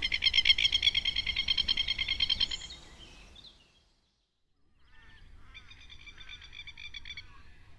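Masked lapwing (plover) giving its rapid, rattling alarm call, a fast run of sharp repeated notes. A loud burst lasts about two and a half seconds, then after a short gap a fainter second run follows.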